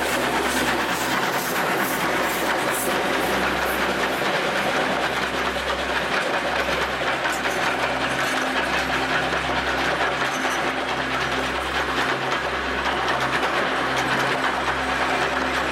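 A train running along the track, a steady, unbroken rolling noise.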